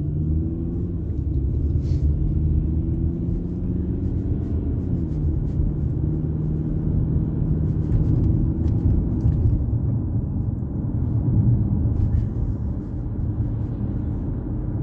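Car engine and road rumble while driving, a steady low drone; the engine note climbs and then drops about five seconds in.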